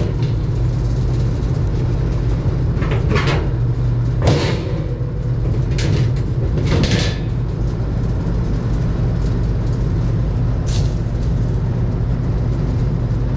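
Air conditioner outdoor unit running with a steady electrical hum while its compressor is not running, the sign of a compressor shut down by its thermal overload switch. Several short scrapes and knocks come through the hum.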